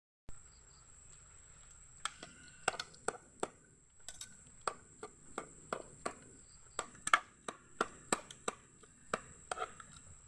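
Knife chopping on a cutting board: a run of sharp, irregular strokes, about two or three a second, starting about two seconds in.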